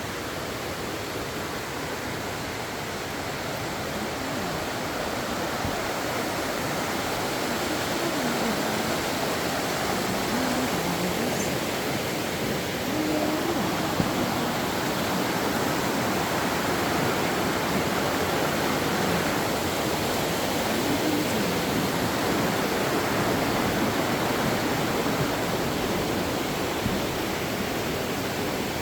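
Steady rushing of running water from a rainforest stream, growing slightly louder over the first several seconds and then holding even.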